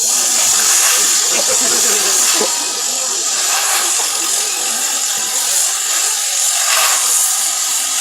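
Steady, loud hiss of steam vented from the Man Engine, a giant mechanical miner puppet, over a murmuring crowd.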